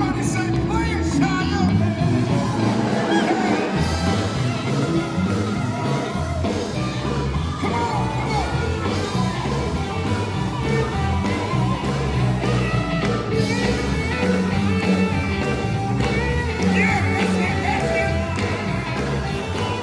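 Sacred steel gospel band playing live: steel guitar gliding over bass and drums, with a steady driving beat.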